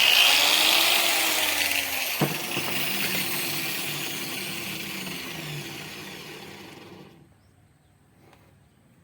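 Electric drill running, with a sharp knock about two seconds in. The sound fades steadily and stops about seven seconds in.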